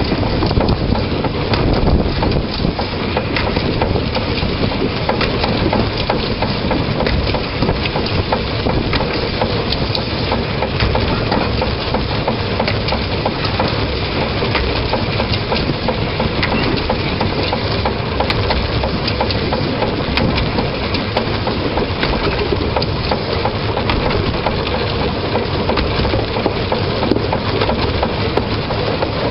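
Narrow-gauge train running along the track, heard from the front of the locomotive: a steady, loud rattling clatter with continual small clicks.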